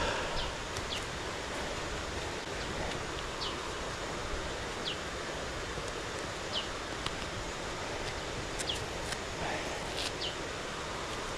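Steady rushing outdoor background noise, with a bird giving short, high, downward-sliding calls every second or two and a few faint clicks.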